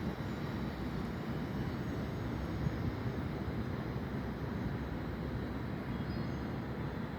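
Joetsu Shinkansen train rolling out of the station, a steady low rumble with no sharp events.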